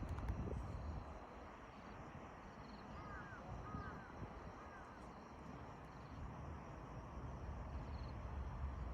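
A bird calls three times, short arched notes about three to five seconds in, over a steady low rumble of wind on the microphone.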